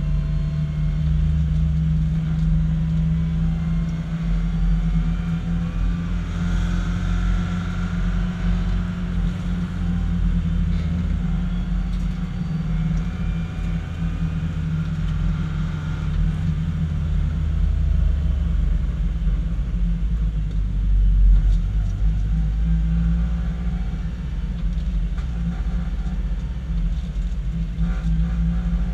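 BMW 318i race car's four-cylinder engine running steadily, heard from inside the cabin as a loud, low drone with no big revving swings.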